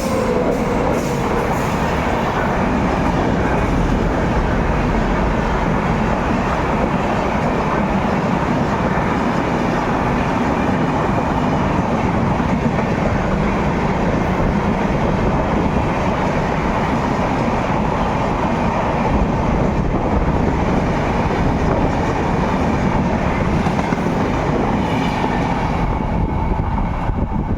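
Indian Railways passenger express train running into a station, a loud steady rumble of the coaches on the rails.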